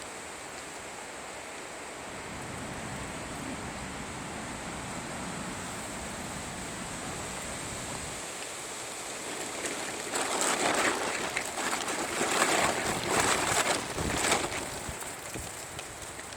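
Strong wind rushing through the treetops: a steady roar that swells into a louder gust about ten seconds in, with irregular rustling and flapping, then eases near the end.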